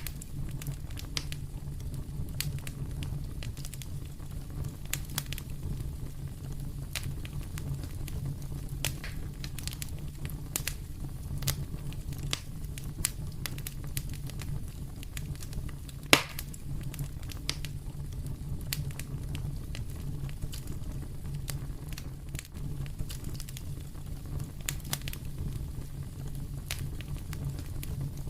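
Fire in a fireplace crackling steadily, with scattered small pops and one louder pop about halfway through, over a low steady rumble.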